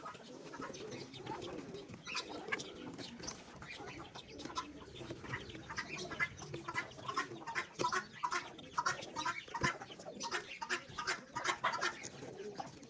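Pigeons cooing, with many short sharp sounds that come thicker and faster in the second half.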